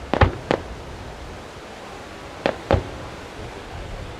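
Aerial firework shells bursting with sharp bangs over a steady hiss: three in quick succession just after the start, then two more about two and a half seconds in.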